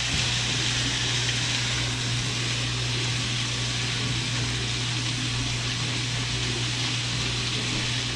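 Diced apples, cranberries, onion and celery sautéing in a skillet, a steady sizzle as a spatula stirs them, over a steady low hum.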